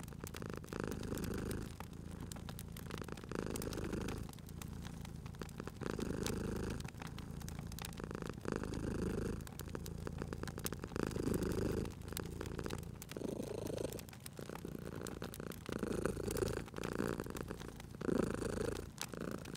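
Domestic cat purring steadily, each breath swelling and fading about once a second, over scattered small crackles from a wood fire.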